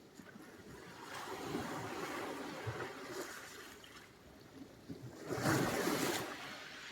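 Sea surf: two waves wash in, one a second or so in and a louder one about five seconds in, each swelling and then fading.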